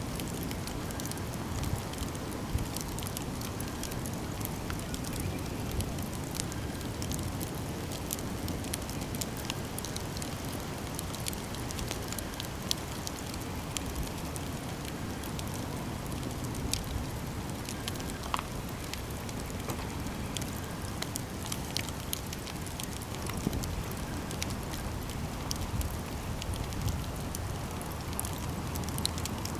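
Campfire burning: a steady low rush of flame with frequent small crackles and occasional louder pops and snaps.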